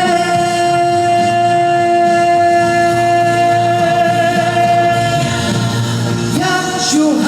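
Live solo singing of a slow trot ballad over a recorded backing track: the singer holds one long steady note for about five seconds, then starts the next phrase near the end.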